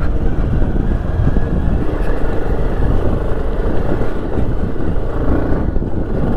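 Motorcycle running steadily on the move, its engine mixed with a heavy low rumble of wind and road noise.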